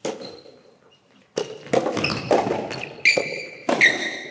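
A soft tennis rally: a string of sharp knocks as the rubber ball is struck by rackets and bounces on the court, the hits coming quickly in the second half, with a few short high squeaks.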